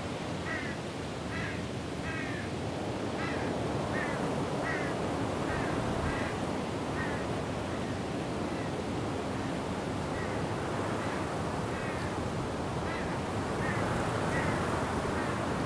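Steady wind-and-rain noise through forest trees, with a bird calling in a series of short repeated notes, about two a second. The calls pause about seven seconds in and start again a few seconds later.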